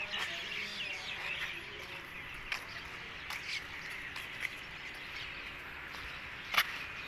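Birds chirping over a steady hiss, with a few scattered sharp knocks, the loudest about six and a half seconds in.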